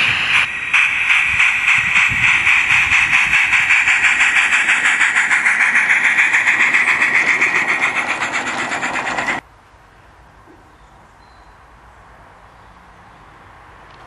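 Sound card in a Gauge 1 model J94 steam locomotive playing a simulated steam exhaust chuff through its small speaker: rapid, even beats, several a second. It cuts off suddenly about nine seconds in, leaving a faint hiss.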